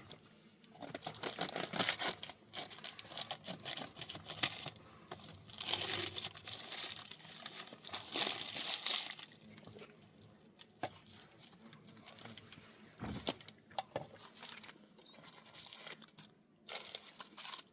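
Irregular rustling and scraping from materials being handled, in uneven spells, with a few sharp clicks and a dull knock near the middle.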